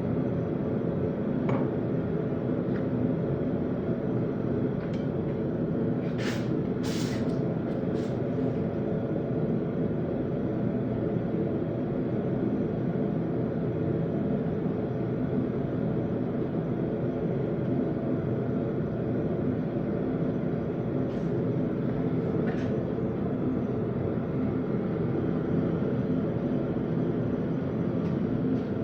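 A steady mechanical drone with a low hum, unchanging throughout, with a few light metallic clinks: once early, a cluster about six to eight seconds in, and a couple more around twenty-two seconds.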